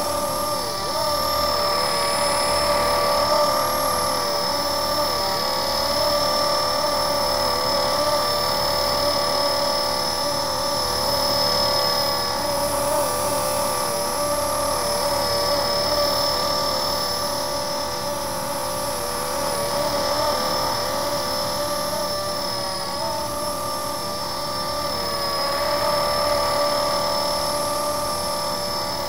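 Blade SR electric RC helicopter hovering: a steady high-pitched motor and gear whine with rotor noise, its pitch wavering slightly as the throttle and pitch are worked.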